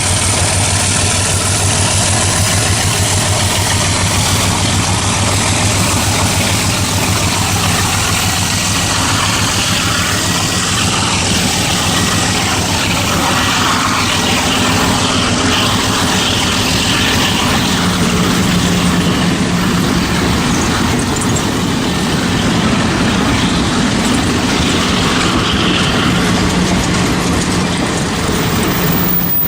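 Diesel locomotive engine running with a loud, steady rumble and noise from a train on the rails.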